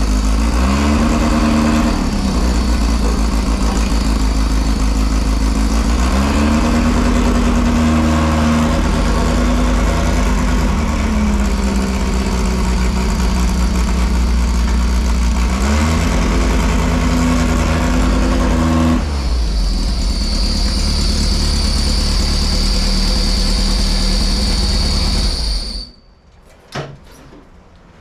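A Volkswagen beach buggy's engine running under load, its revs rising and falling several times as it is driven through the gears. Near the end it runs quieter with a steady high whine, then cuts off suddenly.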